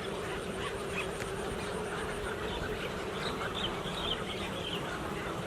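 Many short bird calls chirping in a scattered chorus, thickest near the end, over a steady low hum.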